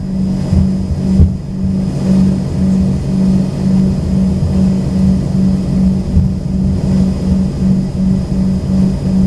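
The Embraer ERJ-135's rear-mounted Rolls-Royce AE 3007 turbofans running steadily, heard from inside the cabin. Their low drone has a hum that swells and fades about twice a second, with a faint steady high whine above it.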